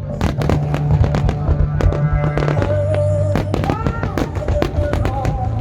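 Fireworks bursting in a rapid, irregular series of bangs and crackles over loud music with a steady bass and held melody notes.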